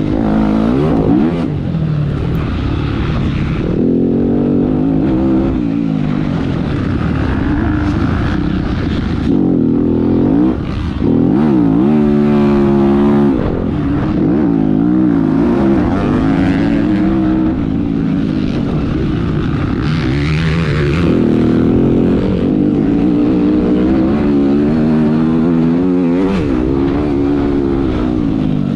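A motocross bike's engine heard on board, revving up and falling off again and again as the rider works the throttle around the track, over a constant rumble of wind and terrain. About twelve seconds in it is held at high, steady revs for a second or so before dropping back.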